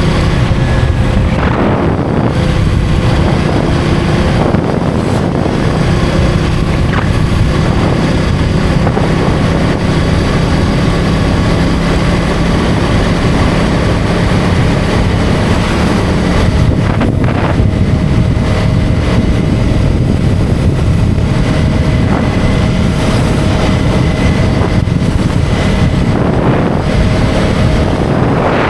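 KTM Duke 250's single-cylinder engine running steadily at cruising speed, with heavy wind noise on the microphone.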